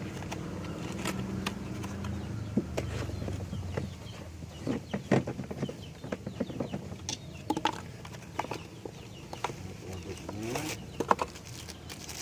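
Chickens clucking with a few short calls, among scattered clicks and knocks; a steady low hum runs through the first few seconds.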